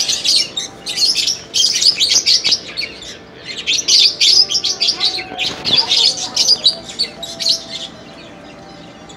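Many small caged birds chirping rapidly in overlapping bouts, over a faint steady hum. The chirping stops about a second before the end.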